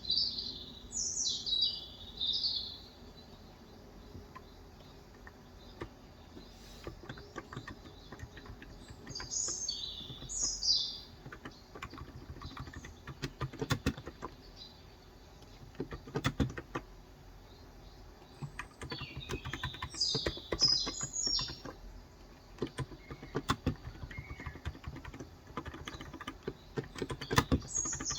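Typing on a COX Endeavor electro-capacitive 35 g tenkeyless keyboard: runs of quick keystrokes, busiest in the second half. Songbirds chirp in short high phrases four times: at the start, about ten seconds in, about twenty seconds in, and at the very end.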